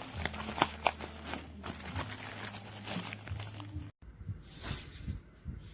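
Crinkling and rustling with sharp clicks and crackles, the sound of plastic packaging or a boxed part being handled, over a low steady hum. The sound cuts out for an instant about four seconds in.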